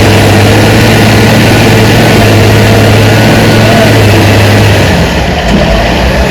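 Heavy diesel engine of earthmoving machinery running steadily at a low hum, its tone changing about five seconds in.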